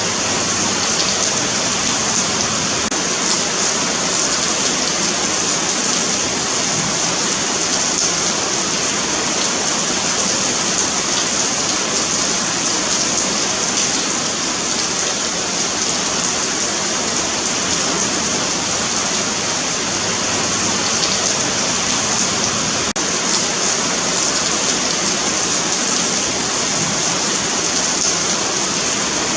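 Steady rain falling on a pavement, a continuous even hiss of drops.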